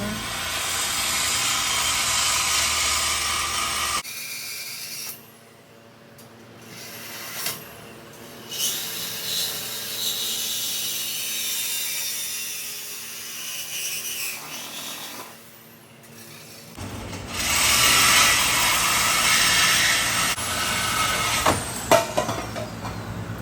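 Shop power tools working on the car's exhaust underneath, cutting out the second mid muffler. Loud, harsh tool noise comes in stretches that start and stop abruptly, with a quieter stretch in the middle holding a few knocks.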